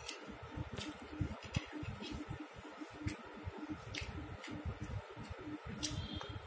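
Close-miked chewing of poha polao, a flattened-rice pilaf, with a metal spoon clicking and scraping on a ceramic plate about six times.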